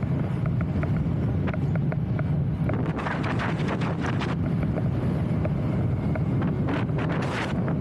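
Wind buffeting the microphone: a steady low rumble, with brief louder hissy gusts about three seconds in and again near the end.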